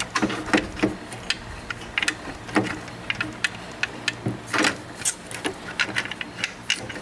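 Irregular metallic clicks, taps and knocks of hand tools and metal engine parts being handled, some sharp and loud, over a faint steady low hum.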